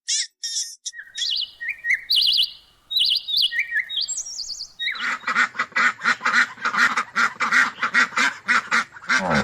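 High chirping bird calls, then from about halfway through a duck quacking in a fast, even run of about four quacks a second.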